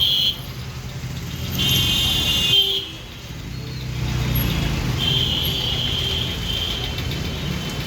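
Road traffic running steadily, with held high-pitched tones twice that may be vehicle horns.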